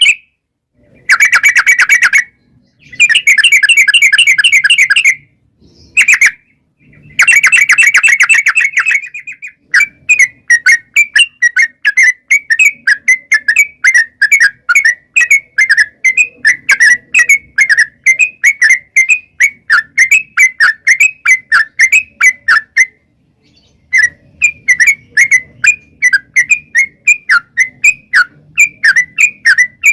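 Yellow-vented bulbul (trucukan) singing: several fast rolling trills lasting one to two seconds each in the first nine seconds, then a long run of quick separate chirping notes, about three a second, with a short pause roughly two-thirds of the way through.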